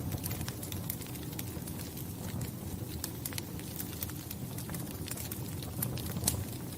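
Wood fire crackling in a fireplace: a steady low rumble of burning with scattered sharp pops and snaps, one louder pop near the end.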